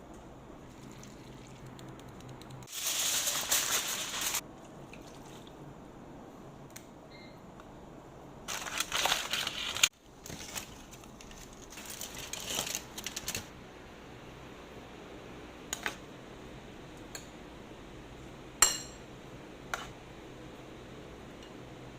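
Kitchen handling sounds: three bursts of rustling or scraping, each a second or more long, then a few sharp clinks, the loudest about three-quarters of the way through.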